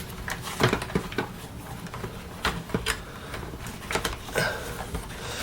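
Scattered light clicks and knocks of hard plastic as a replacement Domel vacuum motor is edged down onto its locators inside a Vax Power 7 Pet's housing.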